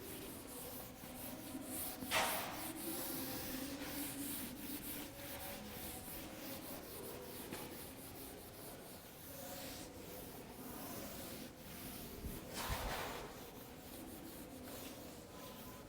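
Faint rubbing against a board as a written answer is wiped off, with a louder swish about two seconds in and another near the end.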